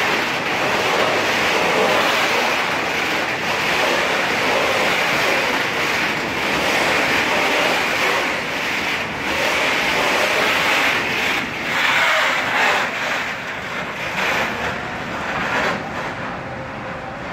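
Freight train's container flat wagons rolling past: a steady rush of steel wheels on rail with occasional knocks as wheels cross the rail joints, easing off near the end as the last wagon passes.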